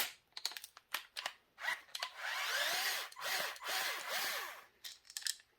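Power drill backing out screws from a bracket: a few clicks of handling, then two runs of about a second each, the motor's pitch rising and falling as it spins.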